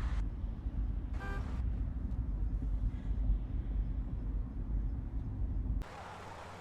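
Vehicle driving on a road: a steady low rumble of engine and tyres, with a short horn toot about a second in. The rumble cuts off abruptly near the end, leaving quieter traffic noise.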